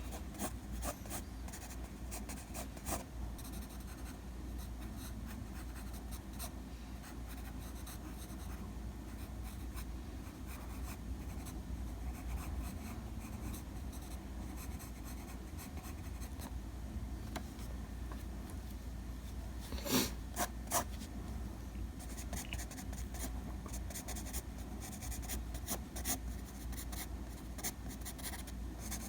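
Pencil sketching on paper: light, continuous scratchy strokes, with two sharper taps about twenty seconds in.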